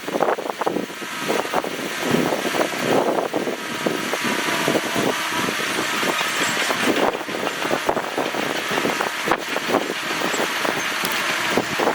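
Heavy earth-moving machinery at work, a bulldozer and dump trucks, running steadily with a rough, crackling noise.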